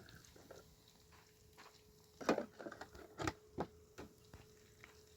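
A few short, sharp knocks in the middle of the stretch, over a faint steady tone.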